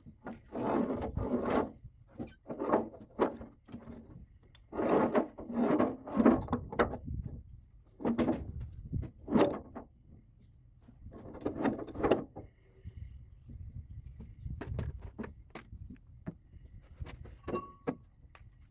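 Hand tools and metal parts clanking and scraping in irregular bursts with short quiet gaps, as a cover plate is worked off a roll-off truck's hydraulic cylinder.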